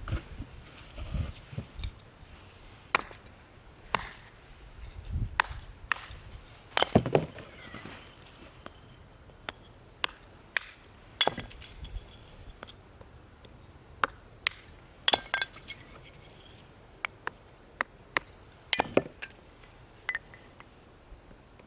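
Pieces of firewood being chopped and handled: a string of irregular sharp wooden knocks, heavier ones with a dull thump in the first half, lighter clicks later.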